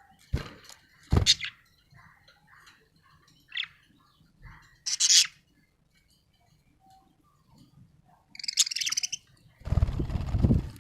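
Pet budgerigar chirping in short, scattered high calls, with one loud chirp about halfway through and a run of warbling chatter later on. Two low thumps come near the start, and a loud low rumble near the end.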